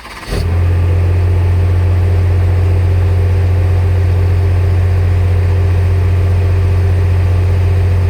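An engine idling steadily with a deep, even hum. It comes in abruptly just after the start.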